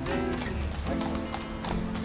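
Acoustic guitar being strummed, with sharp percussive strokes.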